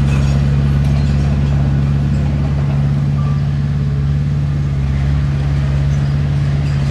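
Heavy diesel engine of earthmoving equipment running steadily at a constant speed, a deep even drone with no revving or breaks.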